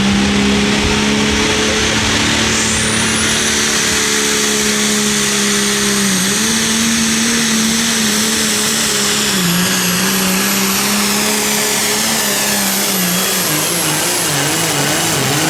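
Pulling tractor's diesel engine at full throttle during a pull, holding a steady pitch with a high whistle above it, then wavering and sagging in pitch toward the end as it loads down under the sled.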